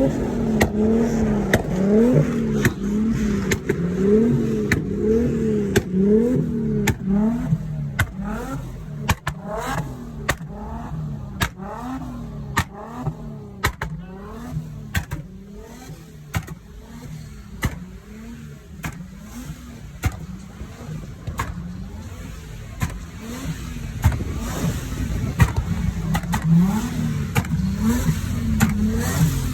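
Car engine revved in quick repeated blips, its pitch rising and falling about once a second, with many sharp clicks throughout.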